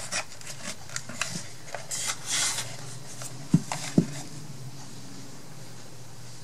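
Paper and craft pieces being handled on a wooden box: light rustling and small taps, with a short paper crinkle about two seconds in and two sharp clicks a little past halfway. The rest is a quiet steady background hum.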